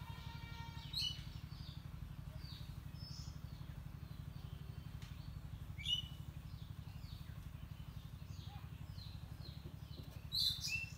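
Birds chirping in short, high calls and whistles, louder about a second in, around six seconds and near the end, over a steady low hum.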